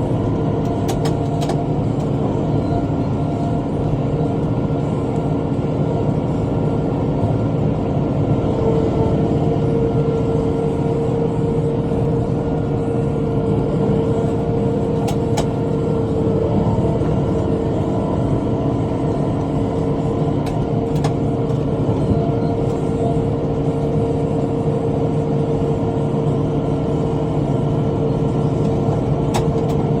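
Tractor engine running steadily under load while driving a rotary cutter (bush hog), with a steady whine and a few faint clicks.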